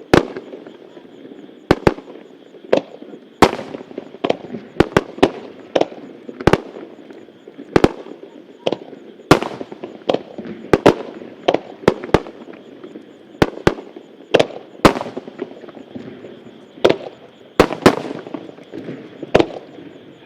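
Starmine fireworks barrage: aerial shells bursting in quick, irregular succession, one or two sharp bangs a second, some trailing off in a fading crackle.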